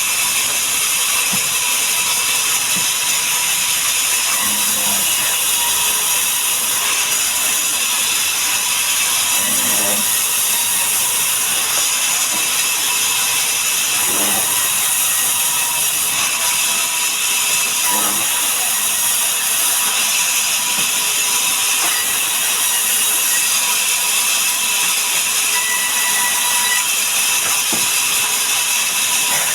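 Sawmill saw running steadily while cutting mahogany: a loud, even mechanical hiss with a faint whine under it that holds unchanged throughout.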